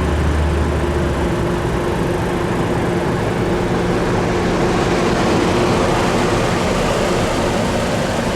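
Steady car noise: an engine running under an even hiss, with a deep hum that drops away about a second in.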